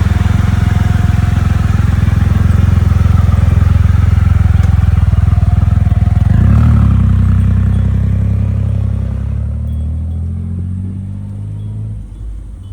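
Triumph Rocket 3 motorcycle's inline three-cylinder engine running loud and steady. Its note shifts about halfway through and then fades gradually toward the end.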